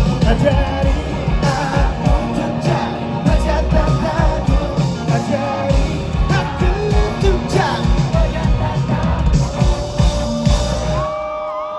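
Rock band playing live with drums, bass, guitars and a singing voice. The full band stops sharply about eleven seconds in, leaving notes ringing that bend in pitch.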